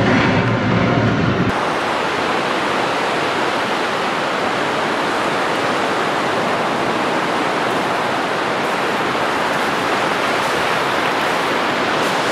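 A steady, even rushing noise at a constant level, starting when a machine-like hum cuts off about a second and a half in.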